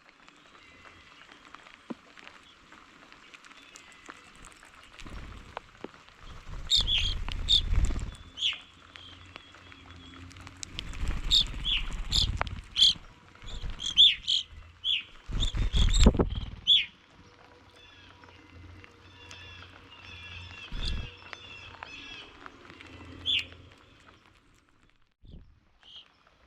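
Small wild songbirds chirping: many short, high calls, busiest in the middle stretch, with a few bursts of low rumble underneath.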